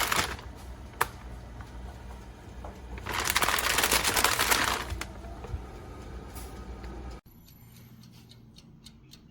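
A plastic bag crinkled for about two seconds, over the steady low hum of a Black+Decker Crisp 'N Bake toaster oven's convection fan running in air fry mode. There is a single click about a second in, and the sound cuts off abruptly near the end.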